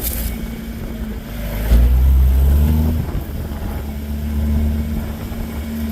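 4x4 off-road vehicle engine running under load, swelling louder for about a second partway through as it is given more throttle.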